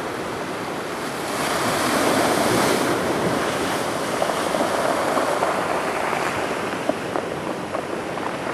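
Storm-driven surf washing onto the shore, a steady rush of water that swells as a wave breaks about two seconds in, then eases.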